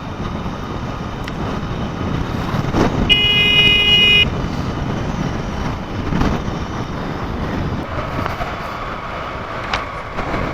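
Steady wind and road noise from a Honda Unicorn motorcycle riding at speed. A vehicle horn toots once about three seconds in, lasting about a second.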